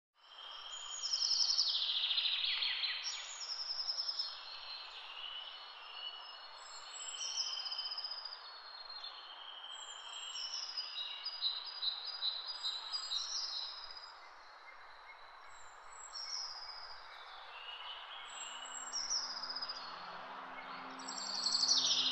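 Songbirds singing over a steady background hiss, with repeated chirps and trilling phrases; the loudest are falling trills about a second in and again near the end. Soft low musical notes come in about eighteen seconds in.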